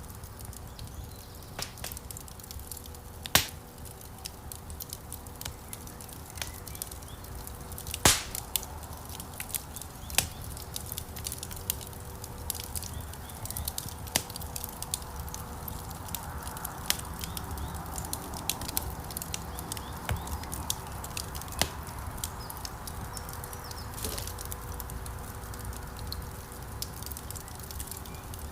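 Wood fire crackling in a stone fireplace: a steady low rumble of burning logs with frequent small crackles and a few sharp pops, the loudest about 3 and 8 seconds in.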